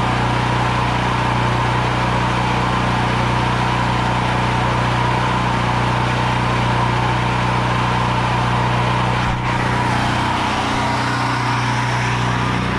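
Portable generator's small engine running steadily at constant speed.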